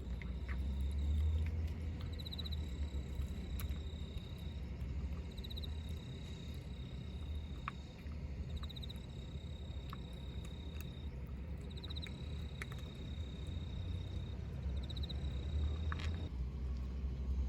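An insect singing: a steady high trill that starts again every three to four seconds, each time opening with a short pulsing stretch, over a low outdoor rumble.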